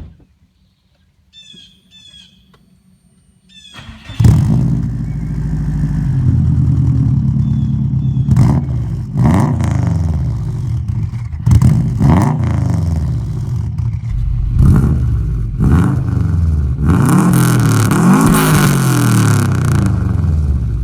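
Subaru WRX STI's turbocharged flat-four starting cold through a catless turbo-back exhaust with only a small muffler: it fires about four seconds in and runs loud, with repeated blips of the throttle revving up and falling back, the longest rev near the end.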